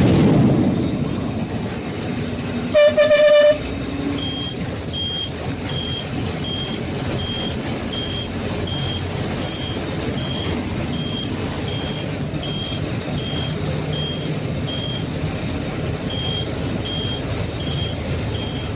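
Truck engine and road noise running steadily, heard from inside the moving cab. About three seconds in, a short loud horn blast of under a second; from about four seconds on, a high electronic beep repeats about one and a half times a second.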